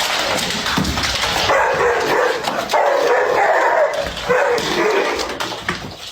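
A dog vocalizing in a run of drawn-out, wavering calls, one after another.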